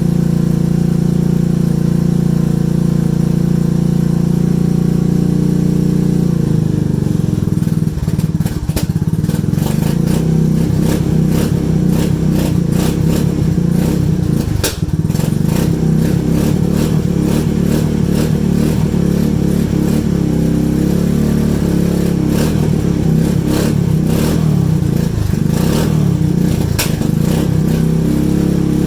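Cold four-wheeler ATV engine running, steady at idle for the first six seconds or so, then unsteady, with many sharp crackling ticks over it from about eight seconds in.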